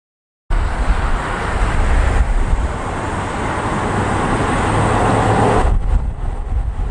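Jet engine noise from a Boeing 747 freighter on approach, a steady rush heard through strong wind buffeting the microphone. Near the end the engine noise drops away abruptly, leaving the low wind rumble.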